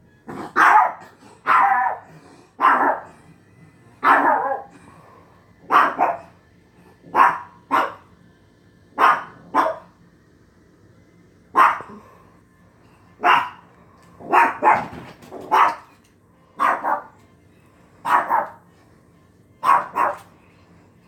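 A dog barking over and over, about twenty short barks, single or in quick pairs, every one to two seconds.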